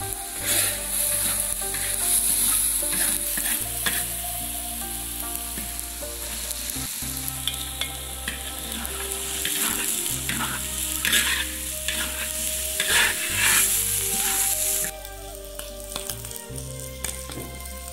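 Oil sizzling in a large iron wok as minced garlic and chili are stir-fried, with repeated scrapes of a metal spatula. Small river prawns go in partway through and the frying gets louder, then the sizzle drops off suddenly near the end.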